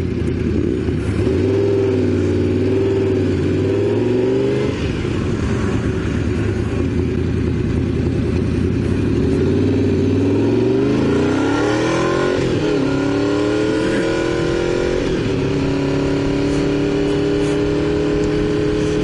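Honda VFR750 motorcycle's V4 engine accelerating through the gears while riding: the pitch climbs and falls at each upshift, three times, then holds steady at cruise. Wind rush on the helmet microphone runs underneath.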